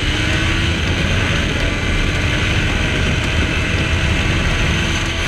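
Motorcycle engine running steadily under road and wind noise while riding.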